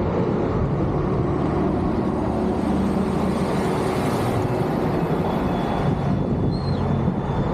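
Steady rumble of highway traffic mixed with wind noise on the microphone, with a vehicle passing about three to four seconds in.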